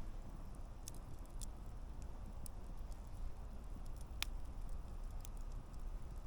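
Wood campfire burning with a steady low rumble and a few scattered sharp crackles and pops from the burning logs, the loudest about four seconds in.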